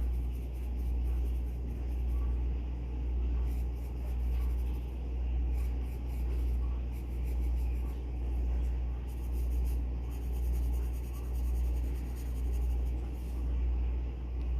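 Graphite pencil scratching across paper in bursts of quick short strokes, over a loud low hum that swells and fades about once a second.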